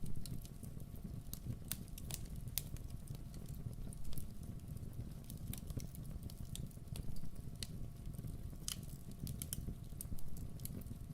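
Campfire burning: a steady low rumble of flames under irregular sharp crackles and pops from the wood, a few louder snaps scattered through.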